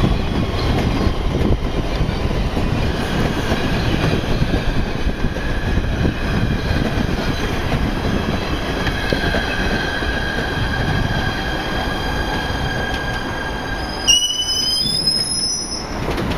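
Electric commuter train rolling slowly alongside the platform and coming to a stop: a steady rumble of wheels on rail with squealing from the wheels and brakes. A short high brake squeal comes near the end as the train halts.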